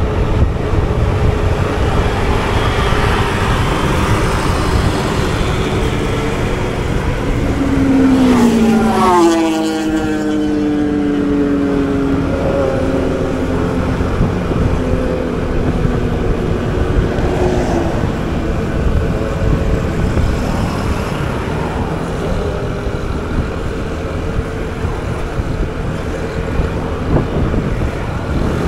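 Motorbike scooter riding along, its small engine running steadily under heavy wind noise on the microphone. About nine seconds in, a louder engine note rises briefly and then falls steeply in pitch.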